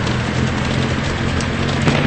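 Heavy rain pouring down, a dense steady hiss with scattered sharp taps of drops striking, over a low steady hum.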